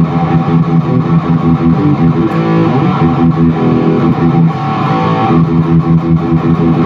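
Distorted electric guitar riff played through a Zoom G1X Four multi-effects pedal into the lead channel of a Peavey 6505+ combo amp, a continuous stream of chords and notes without a break.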